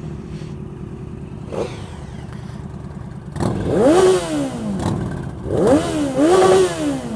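Motorcycle engine running low, then revved hard twice, the pitch climbing and falling back each time, about halfway through and again near the end.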